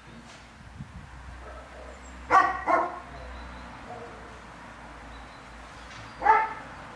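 A dog barking: two barks in quick succession about two and a half seconds in, and one more near the end, over a low steady hum.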